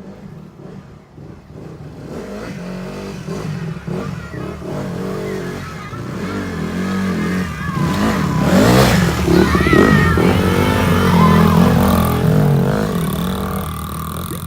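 Small Honda 50 dirt bike engine running under throttle, getting steadily louder and loudest about eight to twelve seconds in, then easing off a little.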